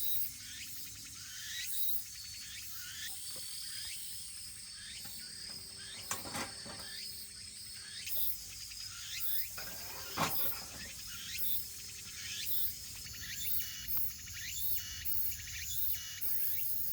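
Crickets and other insects chirping: a steady high trill with many short repeated chirps. A wood fire burning in a titanium fire pit gives two sharp pops, about six and ten seconds in.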